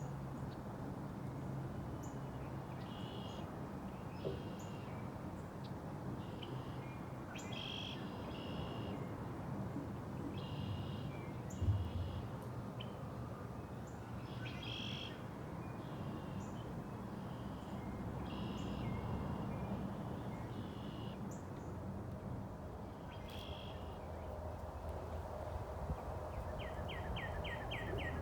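Wild birds calling in woodland: short high notes repeated in clusters, with a fast trill of quick strokes near the end, over a steady low background rumble.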